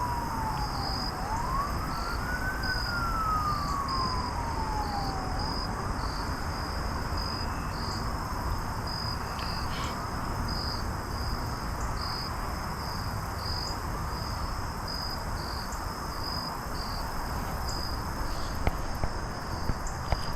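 A distant siren wails, its pitch rising and falling, over the first several seconds and then fades away. Under it, insects chirp in a steady, regular pulse, over a constant rushing haze. A few light clicks come near the end.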